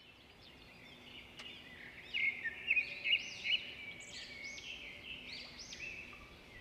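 Several small birds chirping and twittering, many short calls overlapping, growing louder about two seconds in. A faint steady hum sits underneath, with one click about a second and a half in.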